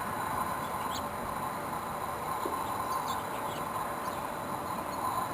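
A few short, faint bird chirps scattered over a steady outdoor background noise with a constant faint hum.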